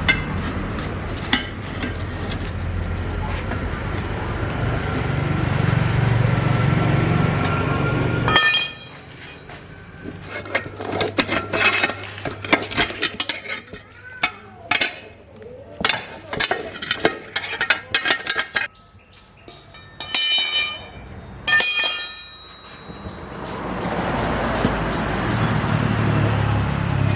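Workshop sounds: a motor runs steadily, then stops about eight seconds in, leaving a long run of metal parts clinking and tapping, some with a short ringing tone. The steady motor sound comes back near the end.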